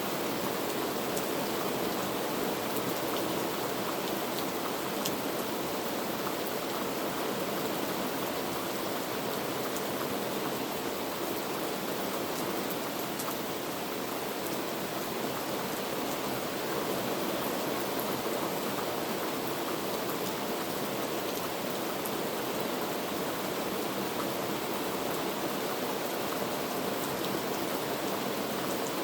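Heavy rain falling in a steady, even hiss, with faint scattered drop ticks.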